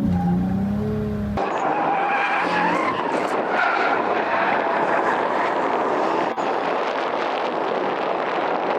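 Drift car sliding on track: engine revving with tyres squealing. About a second in the sound cuts to a continuous tyre screech over the engine.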